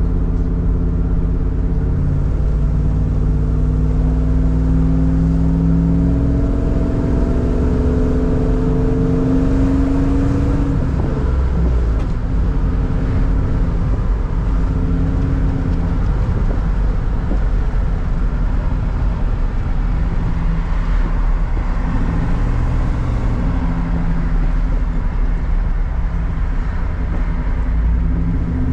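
LS V8 engine running through shorty headers and a Flowmaster 40 Series muffler, accelerating with its pitch rising steadily for about nine seconds, then dropping suddenly about eleven seconds in and running on at a steadier engine note.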